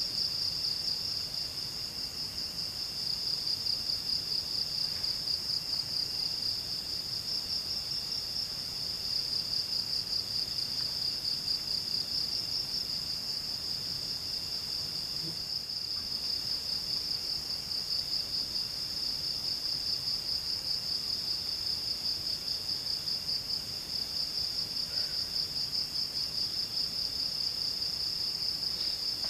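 Forest insects calling: one steady, fast high trill, with a second, fainter insect chirping in short repeated phrases beneath it.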